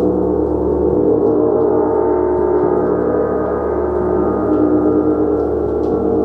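A gong ringing in a steady, sustained wash of many overlapping tones, with no sharp strikes.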